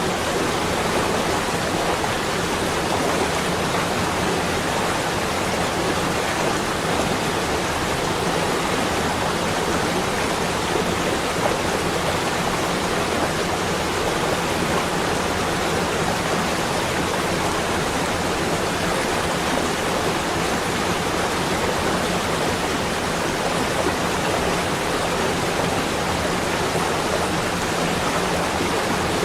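Steady, even rushing noise, unchanging throughout, with no separate drops, gusts or other events.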